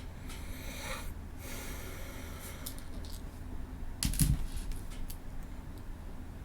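Handling noises: a brief scraping rustle in the first second, a few faint ticks, then a knock with a dull thud about four seconds in, followed by light clicks.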